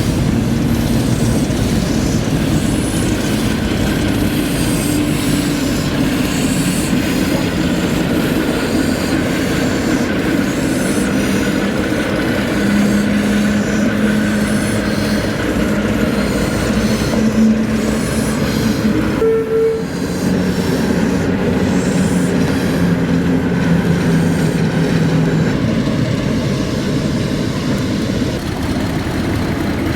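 A train running on the line: a loud, steady rumble of wheels on the rails, with a short dip in level about two-thirds of the way through.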